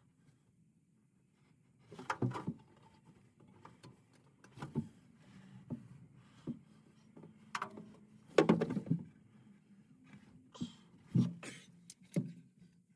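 Irregular knocks and clatters of hand work, about ten in all, the loudest a little past the middle, over a faint steady low hum.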